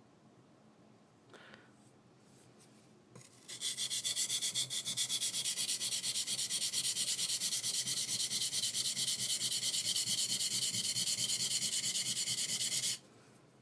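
High-speed steel paring knife stroked rapidly back and forth on a whetstone, about five scraping strokes a second, starting about three and a half seconds in and stopping abruptly near the end. The strokes work the burr back across the edge. Two faint single scrapes come before it.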